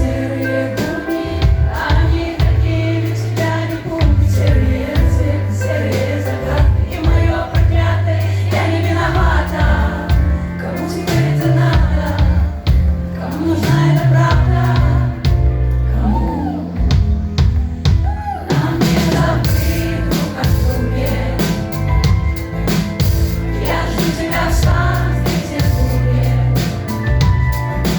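Live concert pop music: a singer over a loud backing with a heavy bass line. About two-thirds of the way through, the accompaniment grows brighter and fuller.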